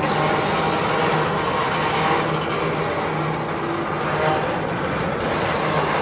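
Freight train of covered hopper cars rolling past close by: a steady rumble of steel wheels running on the rails, with a few faint steady tones over it.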